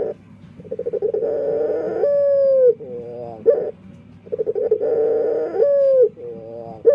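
Male puter dove (Barbary dove) cooing its song twice over. Each phrase is a rolling trill, then a long held note that drops at its end, a sliding note, and a short sharp note. This cooing is unusual, unlike other puter doves, which the owner wonders is a defect.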